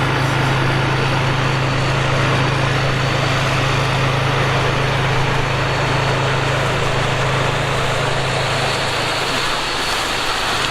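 A small engine running steadily with a constant low hum; its tone changes about nine seconds in.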